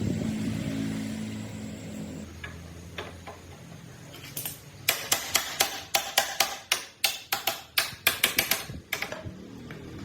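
Sharp knocks in quick succession, about four a second, from about halfway in for some four seconds. Before them, a steady machine hum fades out in the first two seconds.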